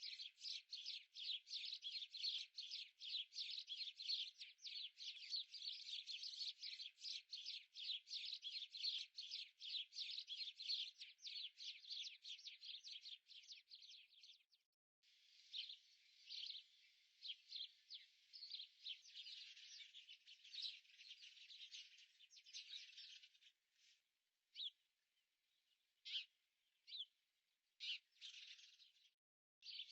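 Small birds chirping rapidly and continuously, breaking off briefly about halfway, then resuming and thinning to scattered single chirps near the end.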